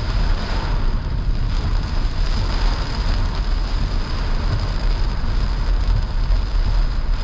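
Heavy rain beating on a car's roof and windshield, heard from inside the moving car, over a steady low rumble of the car on the wet road.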